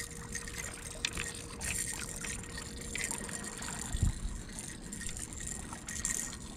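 Water trickling and splashing, with scattered small clicks and handling knocks as a small yellow bass is reeled in and landed, and one low thump about four seconds in.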